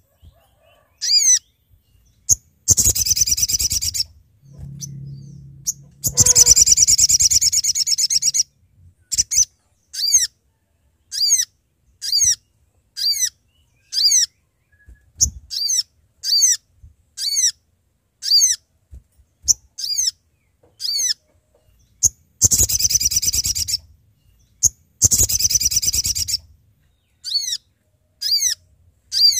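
Little spiderhunter (sogok ontong) calling: a steady series of sharp, high, downward-slurred single notes about one a second, broken four times by loud, rapid, buzzy chattering bursts lasting a second or two.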